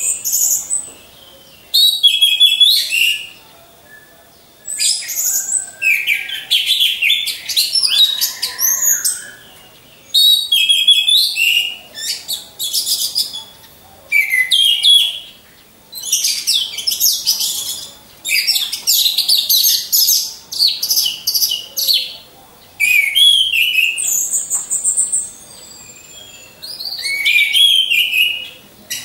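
Orange-headed thrush (anis merah) singing: phrases of rapid, varied whistled notes, each one to two seconds long, repeated about every two seconds with short pauses between them.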